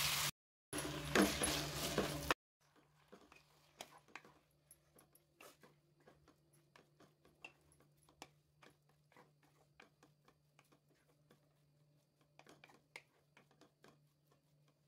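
Grated raw potato sizzling as it lands in hot oil, cut off abruptly after about two seconds. Then faint scattered clicks and scrapes of a wooden spatula stirring the shreds in the pan, over a low steady hum.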